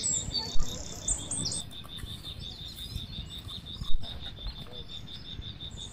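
Birds chirping, with a fast, evenly pulsing high note held throughout, over a low rumble. Two sharp knocks, about half a second in and about four seconds in.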